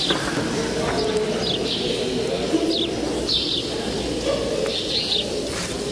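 Birds chirping in short high notes, roughly once a second, over a steady low background.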